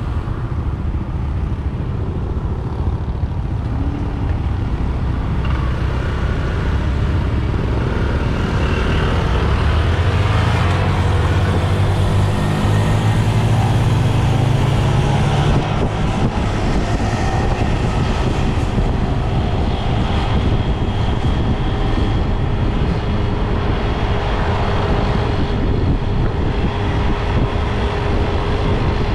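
Riding a motorbike along a road: a steady rush of wind over the microphone mixed with engine and traffic noise. An engine note rises and grows louder from about 8 to 15 seconds in, then drops away.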